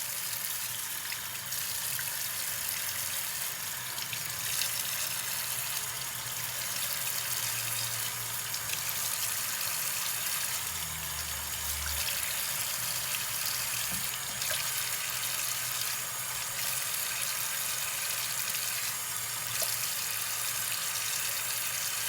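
Tap water running into a sink with splashing as a face is rinsed and washed with the hands.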